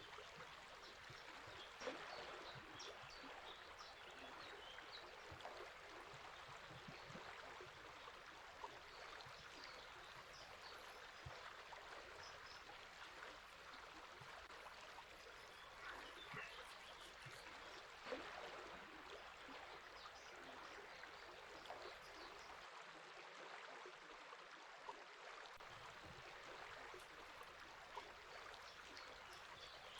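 Faint, steady rush of a flowing river, with scattered short bird chirps above it and a few sharp clicks, the clearest about two seconds in and near the middle.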